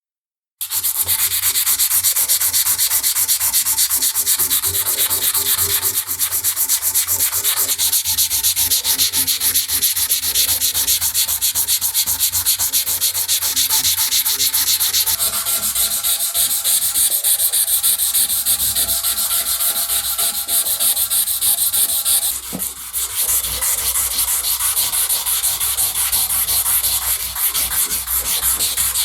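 Abrasive paper being rubbed by hand over the steel of a large drop-forged wrench, a continuous back-and-forth rasp of fine-grit sanding (240 to 400 grit) smoothing the metal. It starts sharply out of silence and falters briefly about three quarters of the way through.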